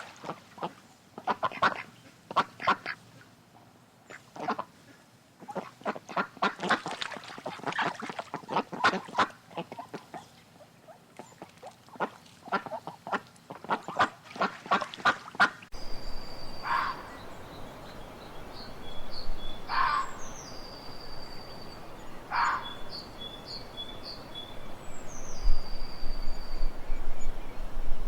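Waterfowl calling in repeated clusters of harsh, nasal calls. About two-thirds of the way through, the sound cuts abruptly to small birds chirping with short, high, falling whistles, with a few single harsher calls.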